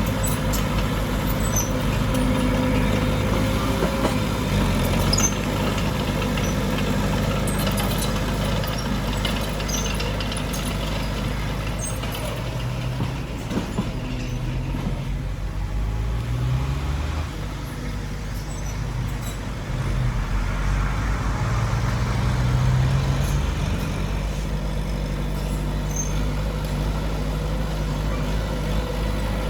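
Diesel engines of earthmoving machinery (bulldozer and dump trucks) running under load, the revs rising and falling several times, with scattered sharp clanks.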